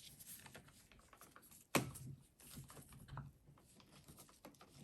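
Small metallic clicks and taps of a bolt being threaded and tightened into a starter motor's end frame by hand, with one sharp click about 1.75 s in.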